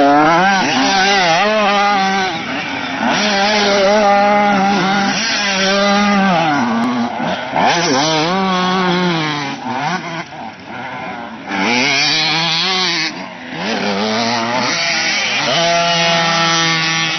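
Motocross motorcycle engines revving up and down over and over as the throttle is opened and closed, with a steadier high rev near the end.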